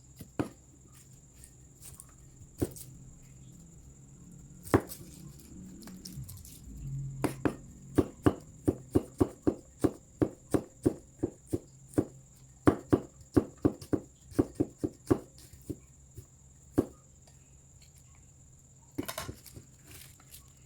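Knife or cleaver chopping chicken on a cutting board: scattered single strokes at first, then a steady run of about two to three strokes a second through the middle, then a few more spaced out near the end.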